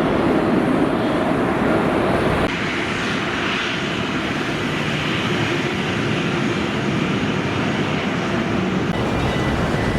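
Airliner engines running loud as an aircraft moves on or near the runway: a steady rushing noise that drops abruptly about two and a half seconds in.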